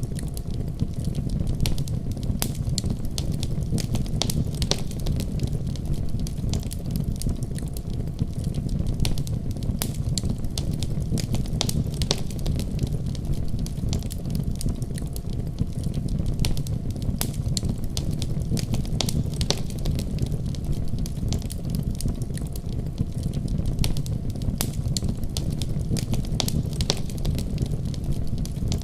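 Wood fire crackling steadily: a low rumble of flames with frequent sharp pops and snaps scattered irregularly.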